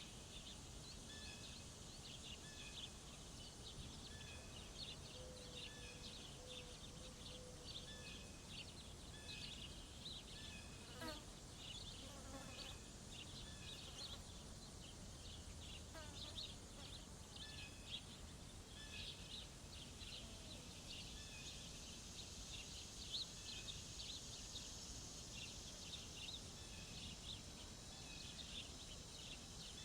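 Faint summer bird-feeder ambience: small birds chirping and calling, with many short high chirps throughout and a short lower note repeated about every second and a half. A couple of brief falling calls come about a third and halfway through.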